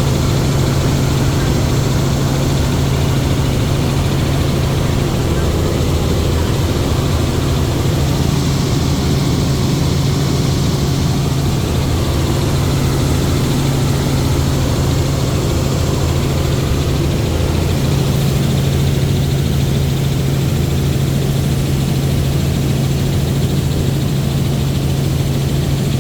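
Helicopter engine and rotors running with a loud, steady drone and a strong low hum that does not change.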